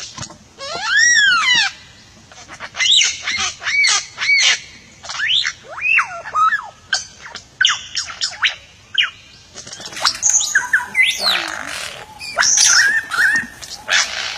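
A native Indonesian songbird singing loud, clear whistled notes that swoop up and down, mixed with quick sharp chirps. About ten seconds in, harsher, rasping calls take over.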